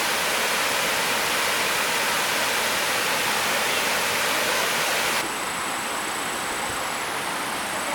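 Rushing stream water: a steady hiss of fast-flowing water that turns slightly quieter and duller about five seconds in.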